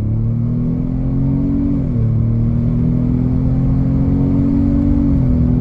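2025 Ford Explorer's 2.3 L EcoBoost four-cylinder at full throttle through Jones Full Boar mufflers with the resonator deleted. The pitch climbs as the SUV accelerates, drops at an upshift about two seconds in, climbs again and drops at a second upshift near the end.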